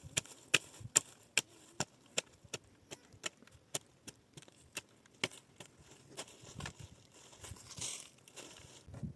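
A hand tool striking wood in quick, regular strokes, about two or three a second, fading out about halfway through. Softer rustling and crinkling follows near the end.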